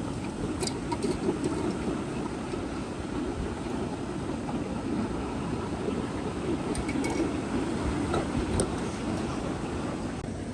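Steady rumble of wind and ocean surf, with a few light clicks.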